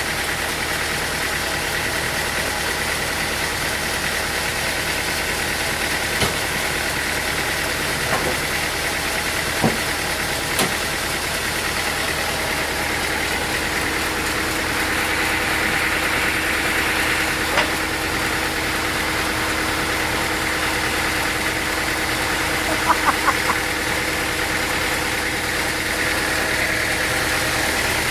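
Sawmill machinery running steadily, with a few sharp knocks and a quick run of four knocks about three-quarters of the way through.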